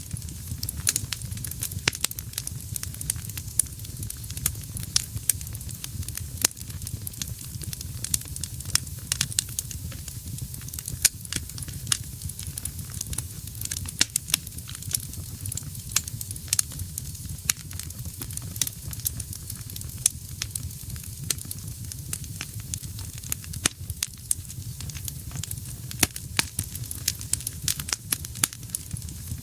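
Wood fire burning in a fireplace: many sharp, irregular crackles and pops over a steady low rumble of the flames.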